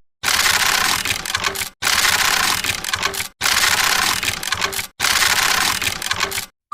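A harsh crackling, crunching noise in four near-identical stretches of about a second and a half each, with brief silences between: one short sound played over four times.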